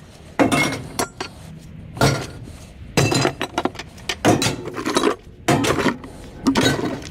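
Pieces of scrap aluminum thrown onto a metal pile, clanking and clattering in a dozen or so irregular hits, each with a short metallic ring.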